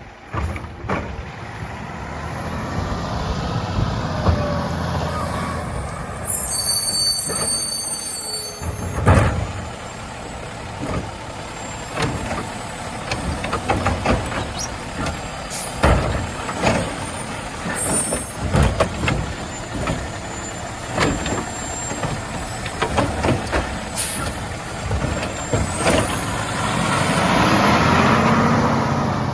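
Peterbilt 520 garbage truck with a Labrie Automizer automated side-loader working a line of carts: the diesel engine runs and revs to drive the hydraulic arm, with repeated air-brake hisses and sharp knocks and bangs of carts being lifted and dumped. Short bursts of high beeping come twice.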